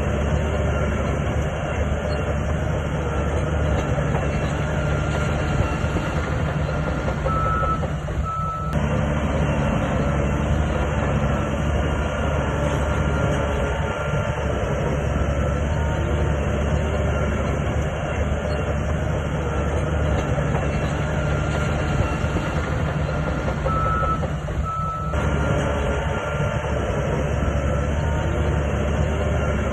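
SHANTUI bulldozer's diesel engine running steadily at working revs, a deep, constant drone. A reversing alarm gives a pair of short beeps about a third of the way in, and again near the end.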